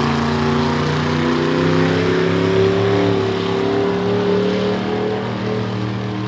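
Monster truck engine running at a steady speed, its pitch rising slightly and easing back.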